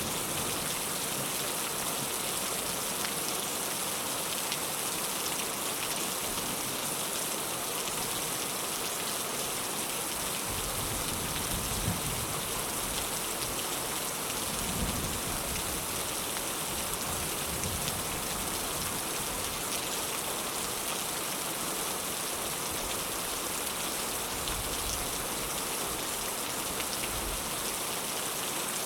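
Heavy rain falling in a steady, dense hiss, with a low rumble coming in between about ten and sixteen seconds in.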